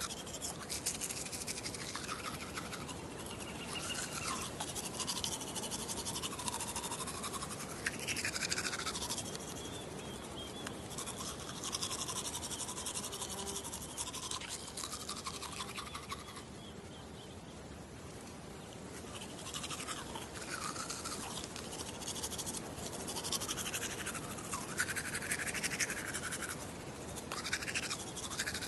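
Toothbrush scrubbing: dense, scratchy bristle noise with wavering squeaky tones running through it, easing off for a few seconds past the middle before picking up again.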